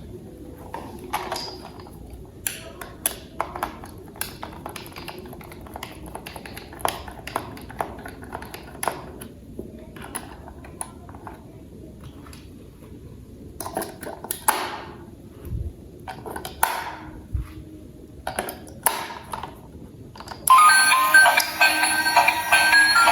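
Hard plastic toy parts clicking and tapping as they are handled and fitted together, in scattered sharp clicks. Near the end a battery toy's electronic music starts up, much louder.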